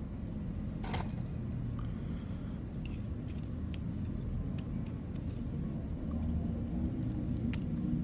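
Steady low rumble with scattered light clicks and taps, a sharper click about a second in.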